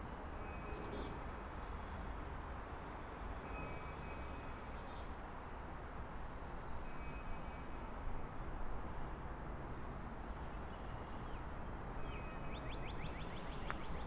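Songbirds chirping and calling, short high calls scattered throughout with a rapid trill near the end, over a steady low background rumble.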